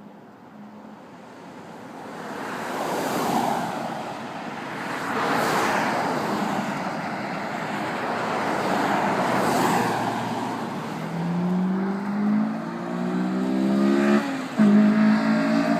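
Road noise from passing traffic, then a 2008 Honda Civic Si with an aftermarket race exhaust accelerating hard at wide-open throttle. The engine note climbs steadily in pitch, drops at an upshift about three quarters of the way in, and climbs again.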